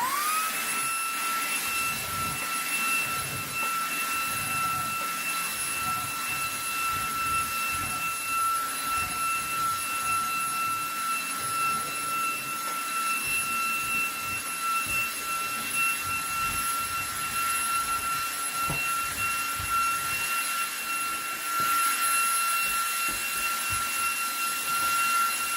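eufy HomeVac H30 Mate cordless handheld vacuum switched on at max power: its motor spins up within a second into a steady high-pitched whine over a rush of air, run with its brush attachment over a rug.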